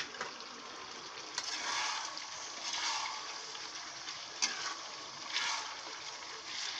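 Mixed vegetables sizzling in hot oil in a metal kadhai while a spatula stirs them, the sizzle swelling with each turn and a few sharp clicks of the spatula against the pan.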